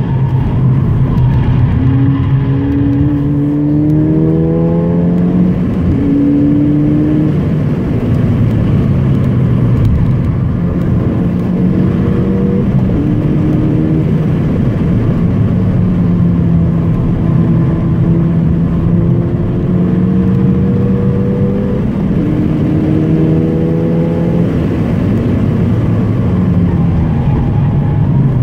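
Car engine heard from inside the cabin at speed on a race track, its pitch climbing with the revs and dropping back at gear changes several times, over steady tyre and road noise.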